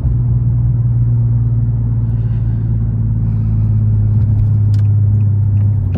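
Infiniti G37's 3.7-litre V6 and road noise heard inside the cabin while cruising, a steady low drone that holds one pitch.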